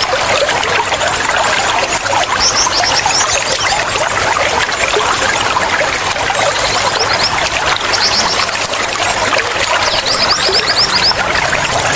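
Flowing water trickling and splashing steadily. Short quick runs of high bird chirps come three times: about two and a half seconds in, about seven seconds in, and about ten and a half seconds in.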